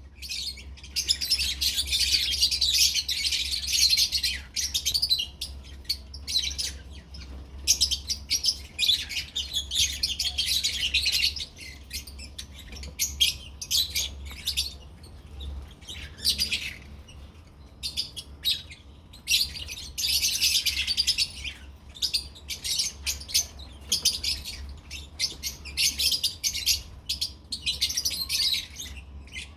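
Several caged lovebirds chattering with dense, high chirps in spells of a few seconds, broken by short lulls, over a steady low hum.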